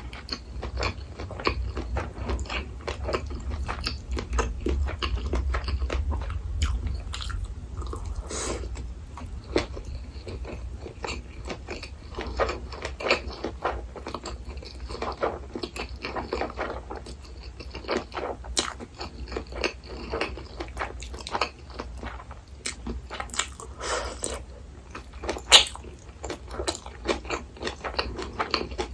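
Close-miked eating sounds: steady chewing and biting of food, with many small wet clicks and smacks and one sharper louder click near the end.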